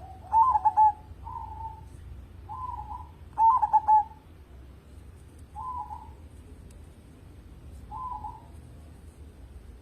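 Zebra dove (perkutut) cooing: short rolling coo phrases, two loud ones in the first four seconds, then softer ones repeated every two seconds or so.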